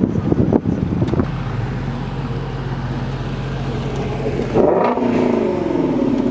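A car engine running steadily, then about four and a half seconds in a louder engine note whose pitch drops away over the last second and a half, as a car revs or pulls off.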